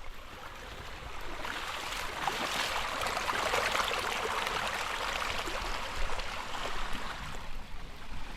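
Rain-swollen creek water rushing and splashing. The rush swells up after about a second and a half and eases off near the end.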